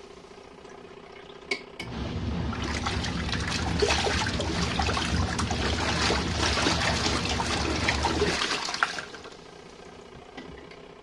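Compact RV washing machine agitating during its cold rinse: a motor hum and sloshing, splashing water start about two seconds in and stop about eight and a half seconds in.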